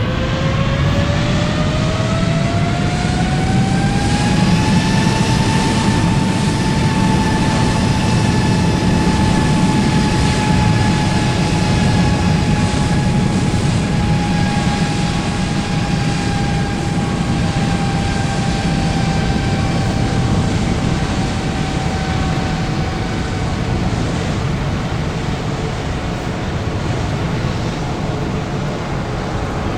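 Airbus A330-900neo's Rolls-Royce Trent 7000 jet engines heard from inside the cabin over a steady low rumble while taxiing. The engine whine climbs over the first five seconds as thrust is added, then holds and slowly sinks.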